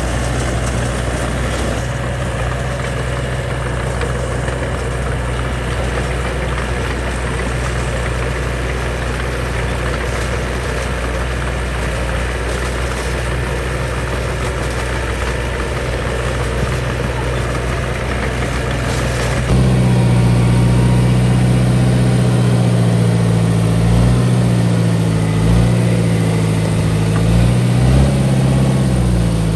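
Heavy construction machine engine running steadily at a low idle, then abruptly louder and higher about two-thirds of the way through, its pitch rising and falling as it is worked.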